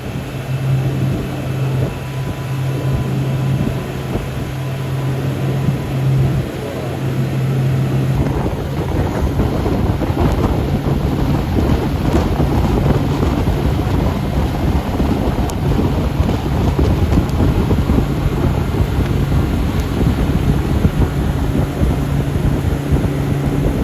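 A river boat's engine running steadily, with wind on the microphone. About eight seconds in, the wind and water rush grows louder over the engine hum.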